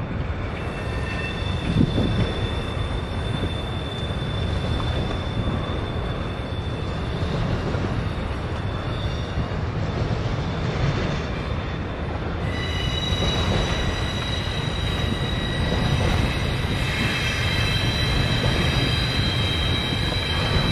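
Double-stack container train rolling across a steel girder bridge: a steady low rumble of wheels on rail. Over it run thin, high wheel squeals that grow louder and more layered about halfway through.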